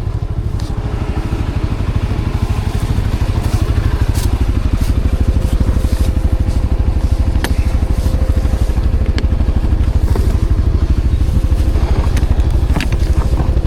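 ATV engine running steadily, with scattered sharp clicks and scrapes over it.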